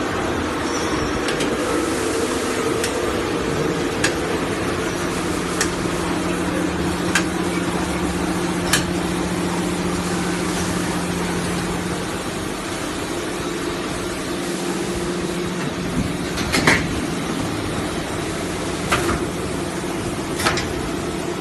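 Automatic HVAC air duct making line running: a steady machine hum with a held tone, broken by occasional sharp knocks and clicks.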